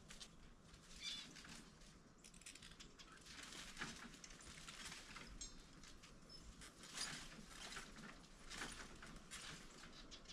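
Faint, scattered short chirps and scratchy rustles from pet birds moving about.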